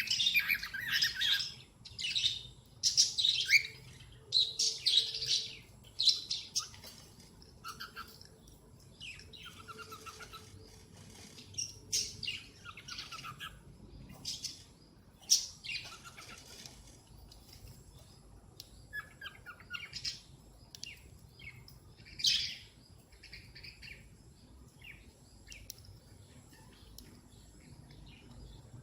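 Cockatiel chirping: a run of short, high calls, coming thick and fast for the first few seconds, then more scattered, with a few louder chirps later on.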